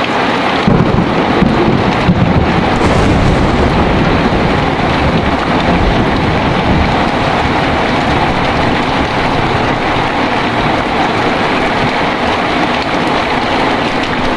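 Heavy, steady rain with a roll of thunder that starts about a second in, rumbles low for a few seconds and then fades back under the rain.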